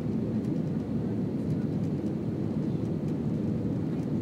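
Steady low rumble of an Airbus A319 airliner's jet engines and rushing air as it comes in to land.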